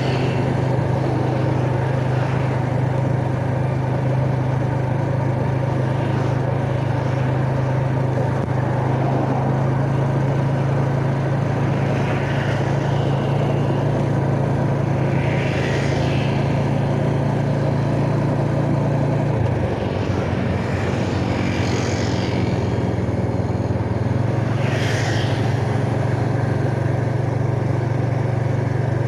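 Yamaha Jupiter Z Burhan's single-cylinder four-stroke engine running steadily while riding, with road and wind noise. About two-thirds of the way through the engine note drops as the throttle is eased, then picks back up a few seconds later.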